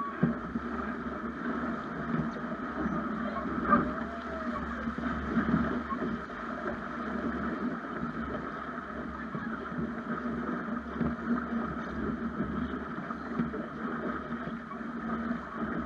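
Snipe sailing dinghy under way: steady rushing of water along the hull, with wind noise.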